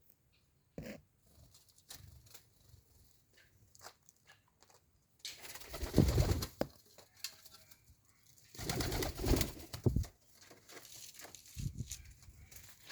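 Domestic pigeons cooing and stirring in their colony, with two louder noisy bursts, each a second or two long, about five and nine seconds in.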